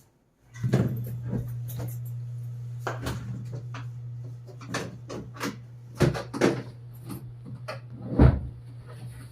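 Repaired washing machine switched on, its motor starting with a steady low hum about half a second in, with repeated knocks and clatter from the machine and its lid over it.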